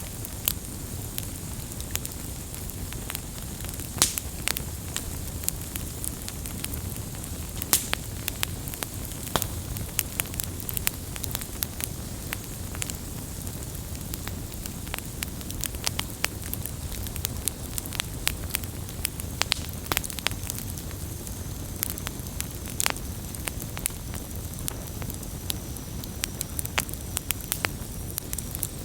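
Campfire burning with a steady low rumble and frequent sharp crackles and pops at irregular intervals, a few louder snaps among them.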